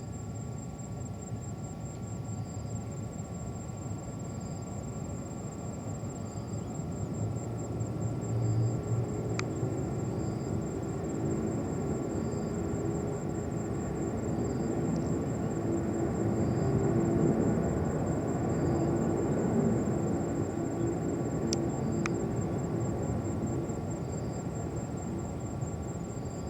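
Distant jet airliner engines rumbling, swelling gradually to a peak about two-thirds of the way through and then easing off as the aircraft passes.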